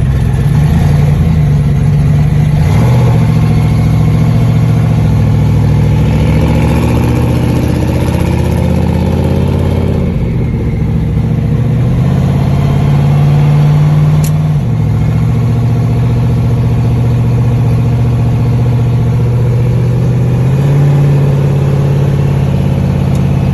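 Hot-rodded Chevrolet Nova's engine, heard from inside the car, pulling away and accelerating. Its note rises and drops at gear changes about three seconds in and again about fourteen seconds in, then runs steadily at cruising speed.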